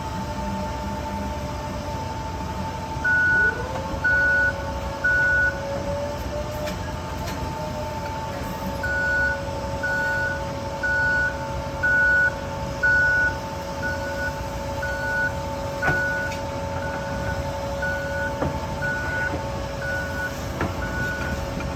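Clamp truck's backup alarm beeping while it reverses, about once a second. Three beeps, a pause of a few seconds, then a steady run of beeps. Under them is the truck's steady whine, which rises in pitch about three seconds in.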